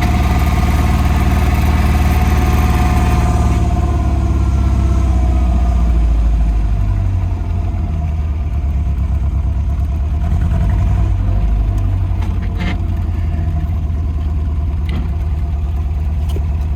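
1959 MG MGA's four-cylinder engine running, fuller for the first several seconds, then easing off to a lower, steadier note about seven seconds in. A few light clicks come near the end.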